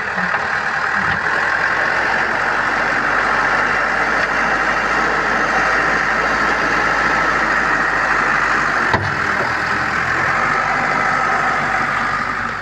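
A vehicle engine running steadily with a loud rushing noise, building up in the first second and dying away near the end, with a single short knock about nine seconds in.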